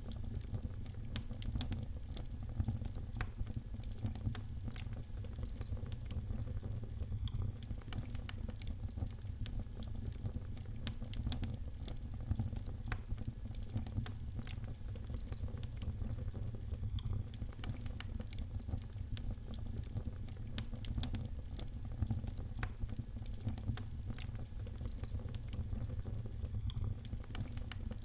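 Wood fire burning in a fireplace, crackling continuously with frequent small sharp pops over a low steady rumble.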